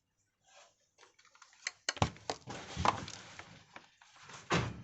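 Handling noises: scattered clicks, then a run of knocks and rustling loudest around three seconds in, with another thump near the end.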